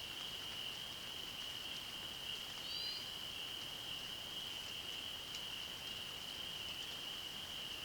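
A continuous high-pitched chorus trill from many distant calling animals, with one brief bird note about three seconds in and a soft background hiss.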